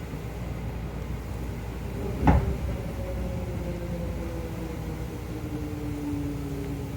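Seibu 101-series resistance-control electric train heard from inside the car: a steady running rumble, a single sharp thump about two seconds in, then a whine that falls slowly in pitch as the train slows.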